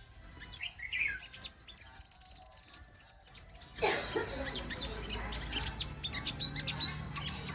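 Sunbird chirping: a run of quick, high, short calls. About four seconds in, a louder low rumbling background comes in under the chirps.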